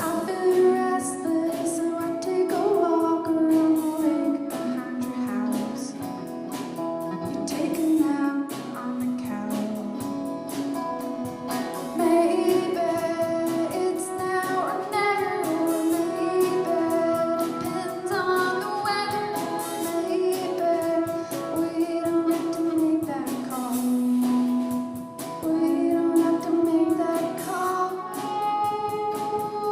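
Live band music: a woman singing a melody over guitar, with a steady percussive beat.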